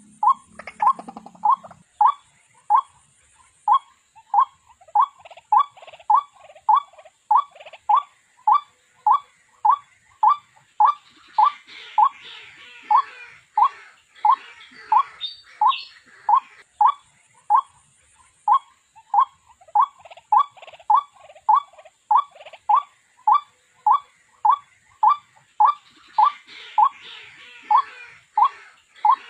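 White-breasted waterhen calling: a single short 'kwok' note repeated over and over at an even pace, about one and a half to two notes a second.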